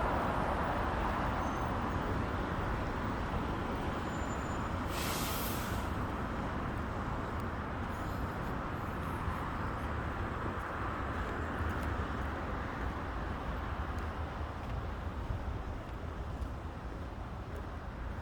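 Steady city road traffic noise that slowly fades, with one short, sharp hiss about five seconds in.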